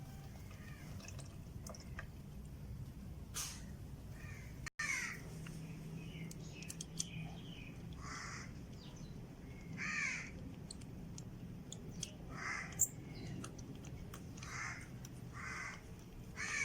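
Harsh bird calls, caws repeated every second or two and clearest in the second half, over a steady low hum.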